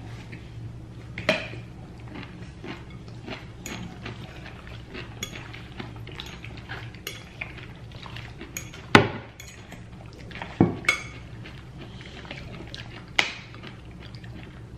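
Cutlery clinking and scraping on a plate while eating salad: many small clicks, with a handful of sharper knocks spread through.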